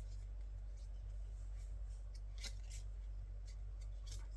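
Photo cards being handled and flipped through by hand: scattered light clicks and slides of card on card at an uneven pace, over a steady low hum.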